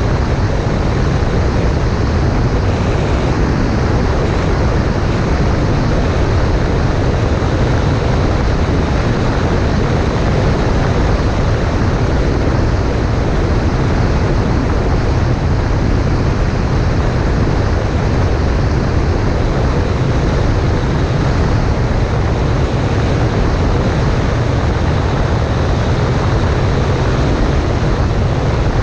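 Cessna 140A in flight: a steady drone of its engine and propeller mixed with a constant rush of air over the microphone.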